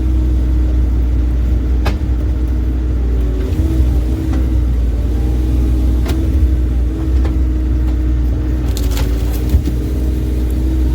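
Bobcat E35 compact excavator's diesel engine running steadily under load, its pitch wavering slightly as the hydraulics work the boom and thumb moving logs. A few sharp knocks are heard.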